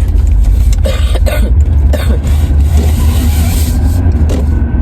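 Steady low rumble of a car being driven, heard from inside the cabin, with a few short noises over it about one and two seconds in.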